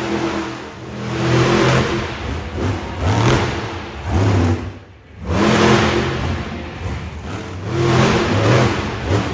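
Monster truck engine revving hard in repeated surges, the pitch climbing and falling several times, with a brief drop-out about halfway through.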